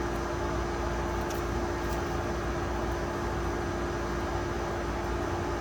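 Steady room hum and hiss from a running machine such as a fan or air conditioner, with one constant tone in it, and a couple of faint light clicks.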